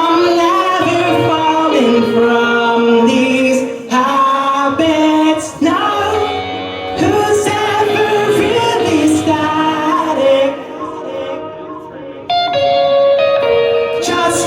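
Live band playing a song with a sustained, melodic sung vocal over amplified guitars and drums. Near the end the music thins out briefly, then the full band comes crashing back in.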